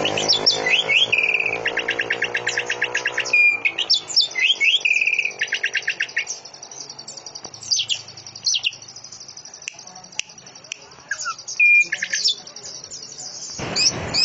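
Greater green leafbird (cucak ijo) singing a canary-like song: fast buzzing trills, sharp falling whistles and chirps. The song is busiest in the first six seconds and thins to scattered calls after that. Under the first few seconds runs a low humming tone that fades away.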